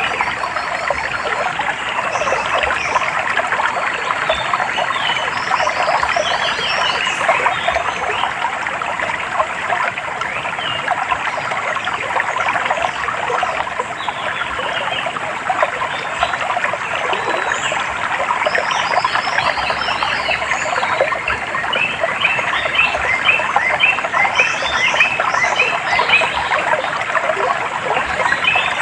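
Stream water trickling steadily, with birds chirping short repeated notes over it, more of them near the end.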